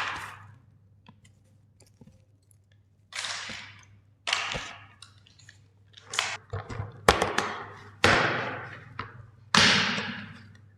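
Crackling, crunching handling noise from a toy, in about seven sharp bursts that each fade over about a second.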